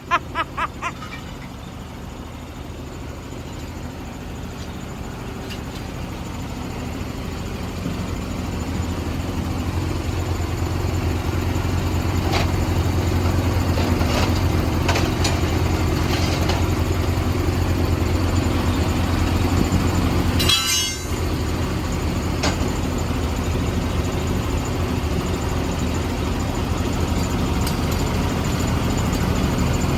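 Heavy truck diesel engine idling: a steady low hum that grows louder over the first ten seconds or so. A few light clicks come in the middle, and there is a brief crackle about two-thirds of the way through.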